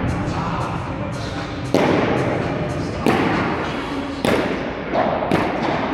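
A padel rally: the ball is struck back and forth with padel rackets, giving sharp hits about every second and a bit, over steady court background noise.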